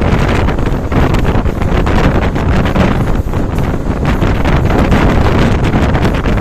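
Train hauled by an Alco WDP3 diesel locomotive running at speed: a loud, steady rush of running noise with wind buffeting the microphone.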